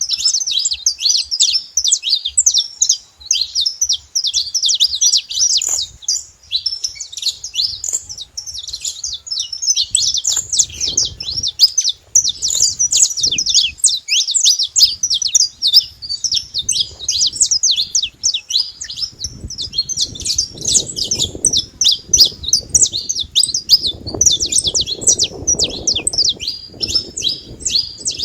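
Saffron finches singing, a dense, continuous stream of rapid high chirps and trilled phrases. A low rumble of noise comes and goes under the song around the middle and through the last third.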